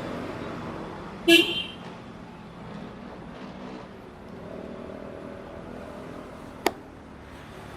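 Steady road traffic noise with a short vehicle horn toot about a second in, and a single sharp click near the end.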